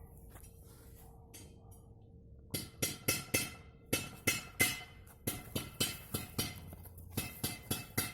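A series of sharp knocks with a metallic ring after each, starting a couple of seconds in, irregular at first, then about three a second with a short break near the end.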